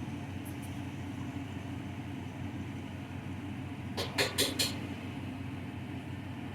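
Steady low hum of a running kitchen appliance motor or fan, with a quick run of four sharp clicks about four seconds in.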